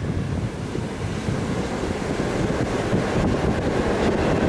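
Passenger train running on the track, heard from an open carriage window: a steady low noise of the wheels on the rails, with wind buffeting the microphone.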